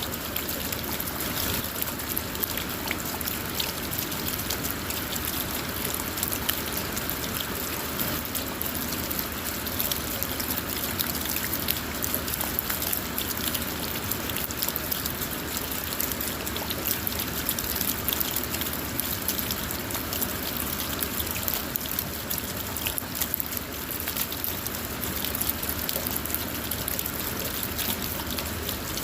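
Steady rain falling on a car: an even wash of water noise dotted with many small, sharp drop ticks, with no change in intensity.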